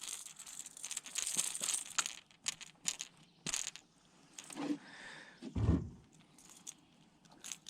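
Irregular light clicks and rattles of fishing tackle being handled after landing a fish, with one dull thump a little past halfway.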